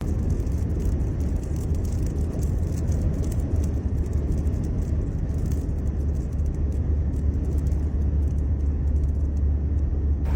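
Strong wind buffeting the microphone in a steady, loud low rumble, with a scatter of small sharp ticks throughout.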